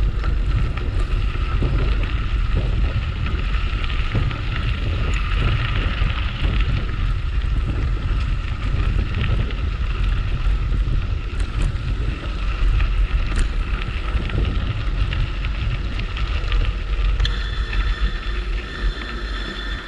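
Wind buffeting the microphone and the low rumble of a bicycle rolling over a dirt trail while riding. A steady high-pitched tone joins near the end.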